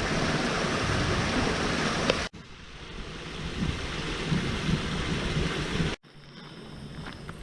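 Rushing wind noise on the microphone outdoors, in three short clips cut together, breaking off sharply about two seconds in and again near the end.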